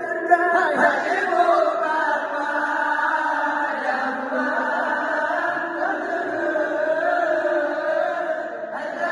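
Voices chanting a melodic song together without pause, a call to wake people for the pre-dawn sahur meal in Ramadan.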